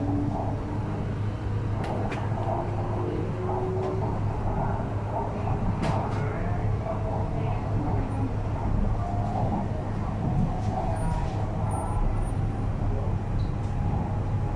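Cabin noise of an MTR R-Train electric multiple unit running at speed: a steady low rumble of the wheels on the track, with the traction motors' faint whine slowly rising in pitch over the first half.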